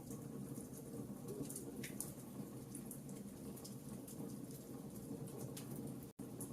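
Campfire crackling: scattered sharp snaps and pops over a steady low rush of burning wood. The sound cuts out completely for an instant about six seconds in.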